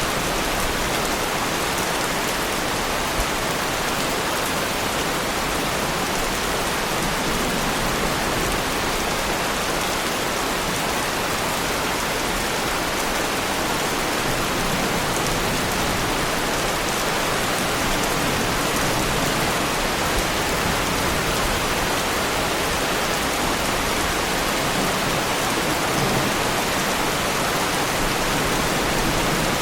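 Heavy rain falling steadily on a Lamborghini Huracan's bodywork, an even wash of drops with no breaks.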